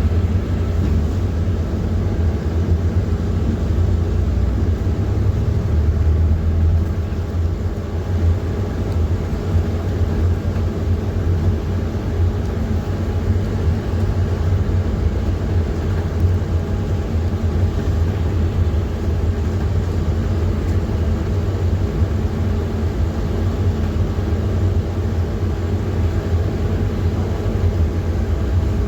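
PAZ-4234-05 bus's diesel engine running steadily, a low rumble as heard riding in the bus.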